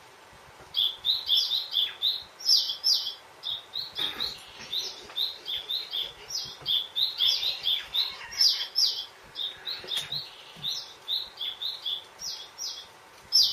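Small bird chirping, short high notes in quick runs, repeated over and over from about a second in.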